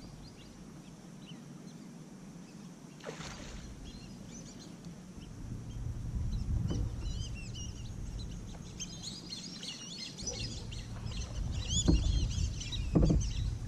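A flock of birds calling in many short, high chirps and whistles, which start about halfway through and keep going. There is a single splash of a kayak paddle about three seconds in, and a low rumble underneath later on.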